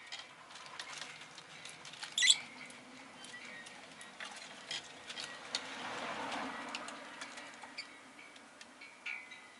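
Peach-faced lovebird giving one sharp chirp about two seconds in, among scattered light clicks. A broad noise swells and fades in the middle.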